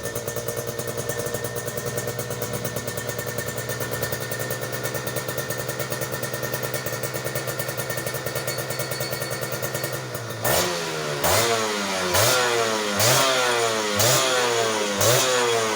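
Kawasaki Ninja 150SS two-stroke single-cylinder engine idling steadily through its exhaust, then, about ten seconds in, revved in quick throttle blips about once a second, each a sharp rise in pitch that falls away again.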